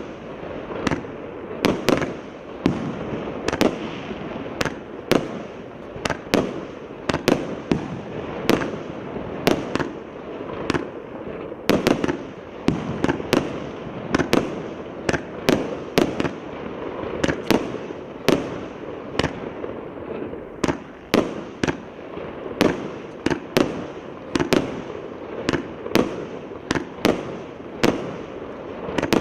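A 120-shot firework cake with 1.2–1.5 inch shells firing in a steady run of sharp bangs, about one to two a second, with steady noise between the bangs.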